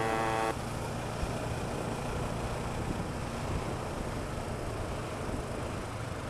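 A loud buzzing engine note, like a small moped, holds a steady pitch and cuts off sharply about half a second in. After it comes steady wind and road rumble from a motorcycle ride.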